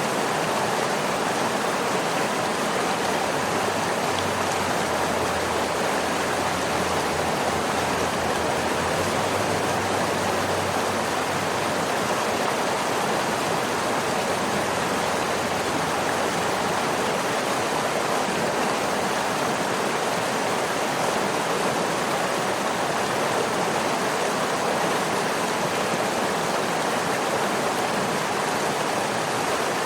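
Waterfall: rushing water making a steady, even hiss with no breaks or changes.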